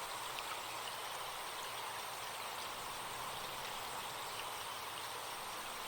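Forest stream flowing steadily, with faint chirps of birds over it.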